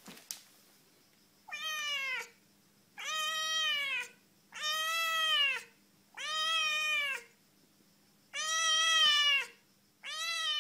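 A kitten meowing six times, about once every second and a half, each meow a drawn-out call that rises and then falls in pitch.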